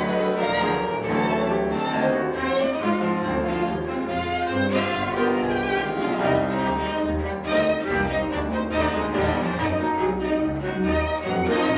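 Live chamber ensemble playing, with violin and cello to the fore in a busy, continuous passage.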